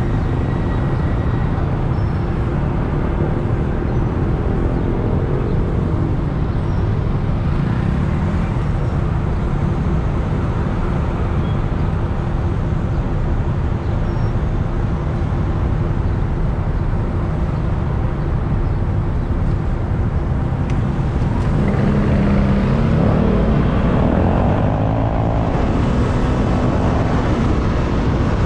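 Motorbike riding through city traffic: a steady rumble of engine and road noise. Starting about three-quarters of the way in, the noise grows a little louder and an engine note wavers up and down for a few seconds.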